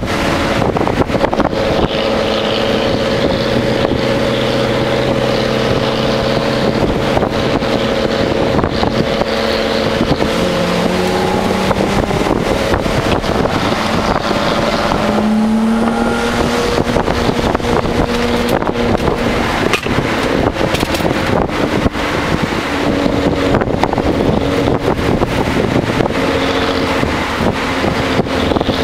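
Nissan Altima SE-R's 3.5-litre V6 heard from inside the cabin while driving a twisty road, over steady road and wind noise. The engine pitch shifts about ten seconds in and rises again around fifteen seconds.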